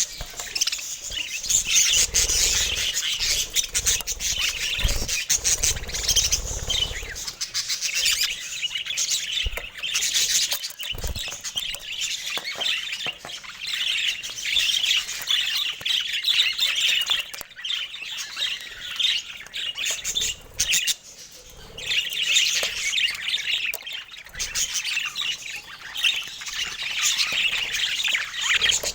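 Budgerigars chattering and squawking without pause in a dense, high-pitched warble. A low rumble and a few dull thumps come in the first several seconds.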